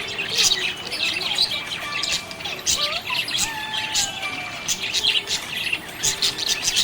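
Budgerigar chirping: a rapid, continuous stream of short high chirps, with a few sliding whistles in the middle.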